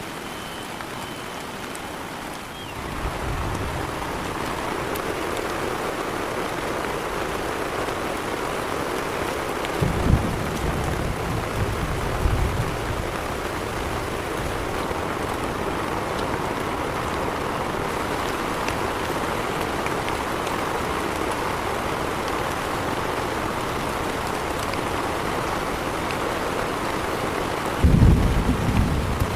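Heavy rain falling steadily, a dense hiss that grows louder a few seconds in. Brief low rumbles break through about ten seconds in and again near the end.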